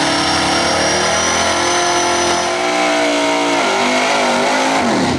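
Street race car engine held at high revs under hard throttle. Its pitch wavers after about three and a half seconds and then drops near the end.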